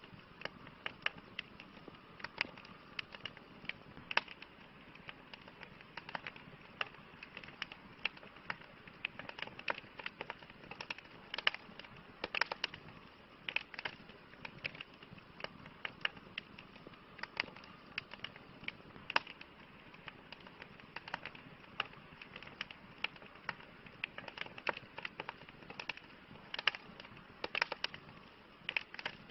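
Campfire crackling: irregular sharp pops and snaps, several a second, over a steady low hiss of burning wood.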